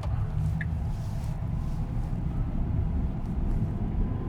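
Tesla Cybertruck accelerating hard, heard from inside the cabin: steady low road and tyre rumble with a faint, slowly rising electric whine. A single light tick comes about half a second in.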